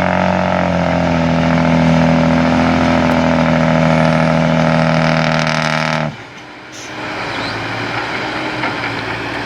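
Hino dump truck's diesel engine running hard through a loud exhaust, holding a steady note that rises slightly about a second in. About six seconds in the sound cuts off abruptly, and a quieter, rougher engine sound follows.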